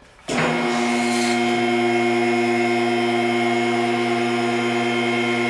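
Electric motor of a mower lift switching on and running steadily as it raises the lawn mower, a constant hum with a few steady tones over it.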